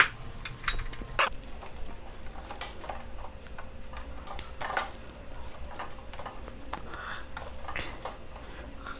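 Irregular clicks and knocks from a 33 cm selfie ring light being fitted onto its tripod stand. The sharpest click comes right at the start, with scattered lighter ones after it.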